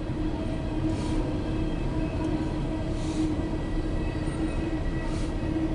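Empty CSX coal hopper cars rolling past: a steady rumble of steel wheels on rail, with faint swells of hiss about every two seconds, heard from inside a car.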